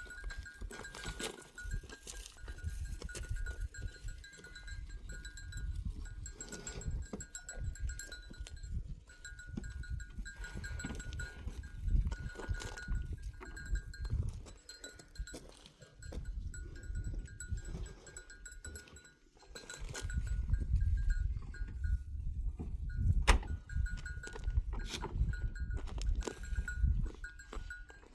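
A flock of goats and sheep, with a repeated bell-like tinkling and scattered clicks over a steady low rumble.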